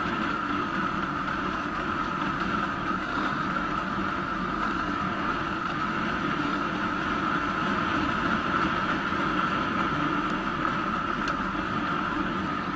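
Trail motorcycle engine running steadily, without revving, as the bike rolls downhill on a dirt track under engine braking.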